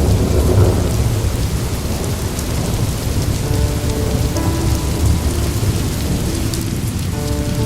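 Steady rain with a low thunder rumble underneath; from about three and a half seconds in, a slow flute melody of long held notes enters over it.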